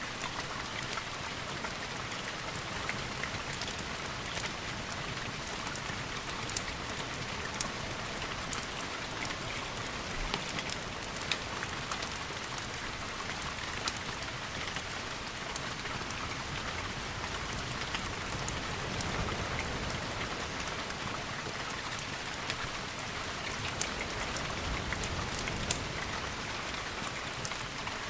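Steady rain falling, with scattered sharp ticks and pops through it.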